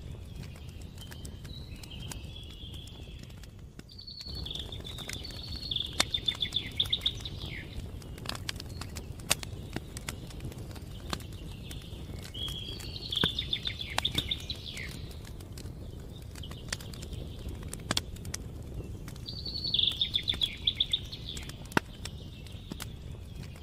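Campfire crackling with scattered sharp pops over a steady low rush, while a songbird sings three trilled phrases several seconds apart.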